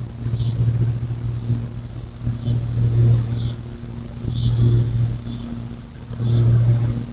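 A low vehicle engine rumble that swells and fades, with short high bird chirps over it about once a second, seven in all.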